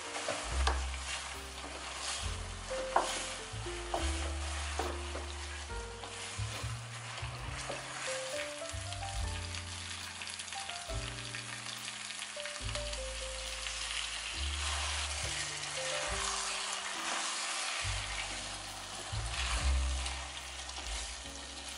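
Chicken pieces sizzling in a pot as red glutinous wine lees are stirred through them with a wooden spatula, with scattered clicks of the spatula against the pot and one sharp knock about three seconds in. The sizzle grows stronger in the second half, after the red rice wine goes in. Soft background music plays underneath.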